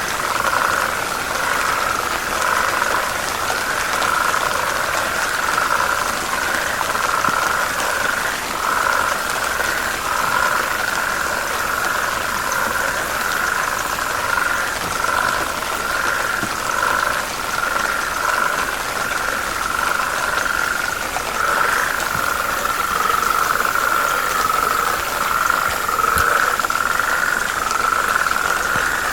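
A dense chorus of many frogs calling from a river's edge. The calls overlap into one continuous, slightly pulsing, mid-pitched drone.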